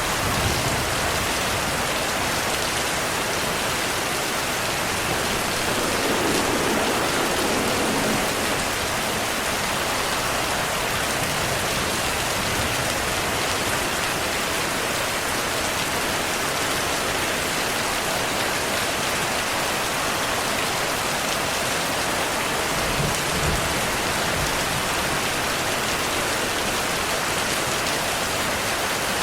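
Steady, heavy rain falling, an even hiss of drops. There is a brief low rumble of distant thunder about three-quarters of the way through.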